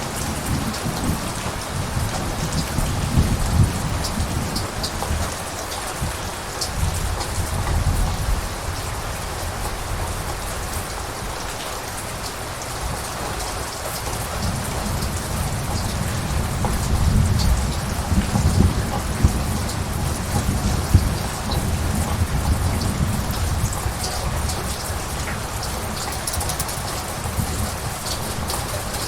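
Steady rain falling, with thunder rumbling low beneath it: a swell of rumble in the first few seconds and another, longer one around the middle.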